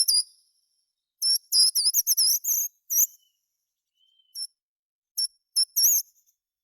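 A songbird singing short, high-pitched phrases of quick sliding notes with pauses between them: a brief phrase at the start, a longer run of rapid notes from about one to three seconds in, then single short notes and a final quick phrase near the end.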